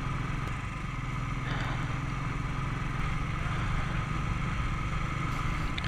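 Royal Enfield Thunderbird 350's single-cylinder engine running steadily as the motorcycle cruises along an open road, with an even hiss of road and wind noise.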